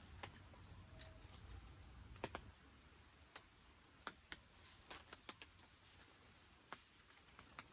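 Scattered water drops tapping on a tent's fabric: faint, irregular ticks, about a dozen, over a low rumble that fades out about two and a half seconds in.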